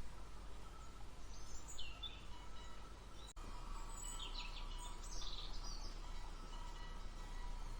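Birds chirping in short calls over a faint, steady outdoor background, with a brief drop in sound about three seconds in.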